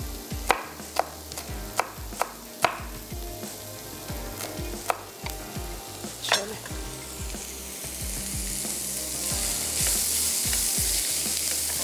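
Several sharp knocks of kitchen utensils, then from about eight seconds in a steady sizzle of food frying in a hot pan.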